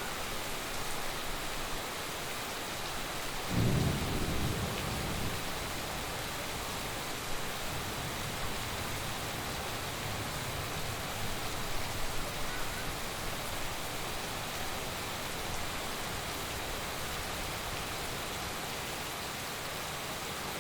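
Heavy rain falling steadily, with a sudden low thunder rumble about three and a half seconds in that fades over a couple of seconds, and fainter rumbling afterwards.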